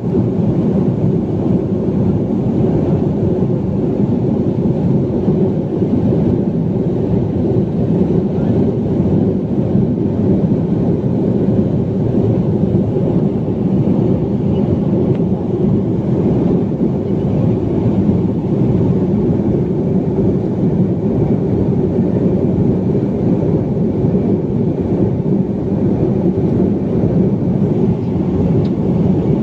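Steady low roar of a BAe 146 jetliner in flight, its four turbofan engines and the rushing air making an even, unbroken rumble.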